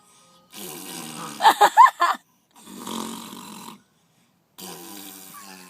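Three imitation fart noises made with the mouth, each a long breathy buzz of about a second or more, one after another. Short high squeaks break out near the end of the first.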